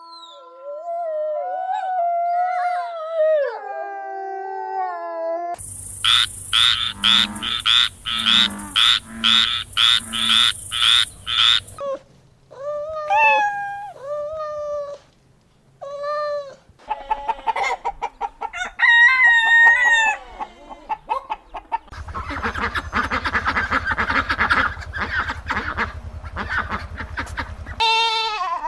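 Farm animal calls played one after another, mostly chickens: a long drawn-out crow at the start, then rhythmic clucking at about two calls a second, short arched calls, and a dense stretch of many overlapping calls near the end.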